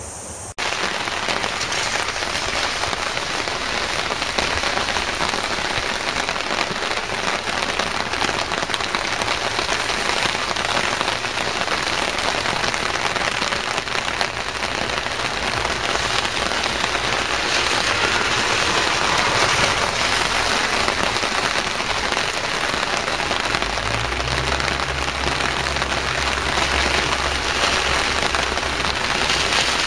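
Steady rain falling on pavement and track. About three-quarters of the way through, a low steady hum joins it.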